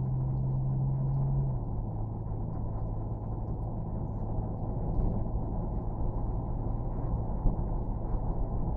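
Steady drone of a vehicle engine with a low rumble, its hum dropping slightly in pitch about a second and a half in.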